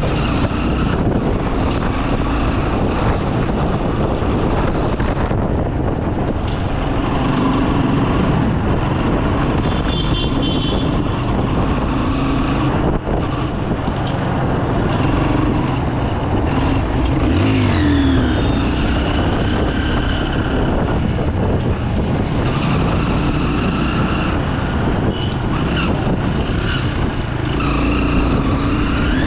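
Single-cylinder engine of a 2008 Bajaj Pulsar 200 motorcycle running under way, its pitch rising and falling with the throttle over steady road noise.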